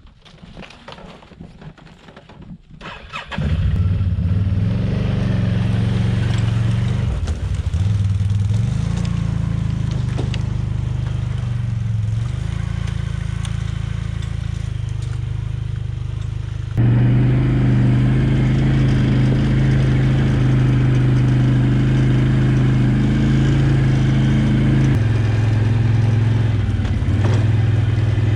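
ATV engine starts up about three seconds in and runs, its pitch shifting up and down with the throttle and getting louder about halfway through, as the quad sets off hauling a trailer loaded with firewood.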